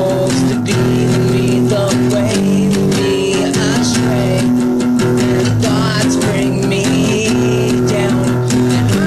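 Guitar music: an instrumental stretch of plucked and strummed guitar playing continuously, with a few notes sliding in pitch.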